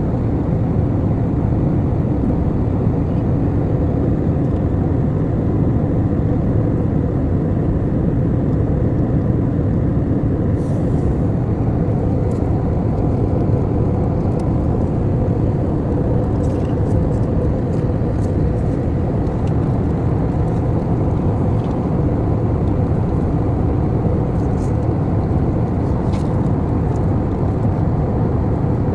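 Steady cabin noise of an airliner in flight: a constant low roar with a faint steady hum on top, and a few faint light ticks through the middle.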